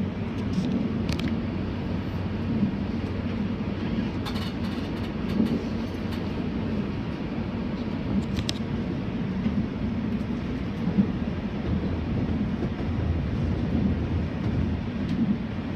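485-series electric train running along the line: a steady low rumble of wheels on rails, with a few faint clicks.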